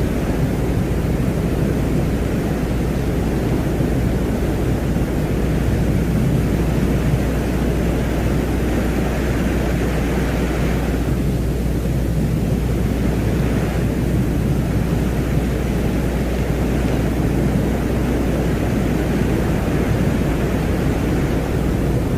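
Ambient space soundscape presented as the sound of Venus: a steady, deep noise drone with a higher hiss that swells and fades a few times, about halfway through and again a little later.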